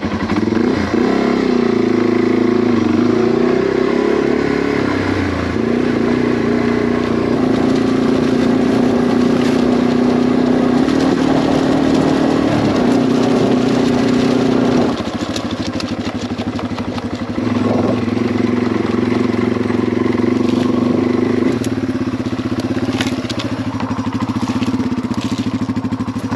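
Yamaha TW200's single-cylinder four-stroke engine with a DG exhaust, riding at a steady pace. The engine eases off about fifteen seconds in and pulls again a couple of seconds later.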